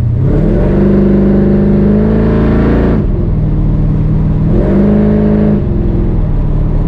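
Chevy C10 drag truck's engine revving up and holding high, dropping off sharply about three seconds in, then revving up again for about a second before dropping off again.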